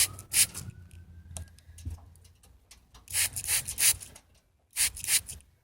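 Pet bird scraping its beak on a wooden perch: scratchy rubbing in several short bursts.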